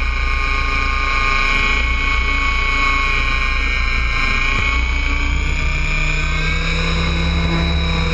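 Align T-Rex 800 radio-controlled helicopter in flight: a steady whine from its rotor and drivetrain, drifting slightly in pitch. Wind rumbles low on the microphone underneath.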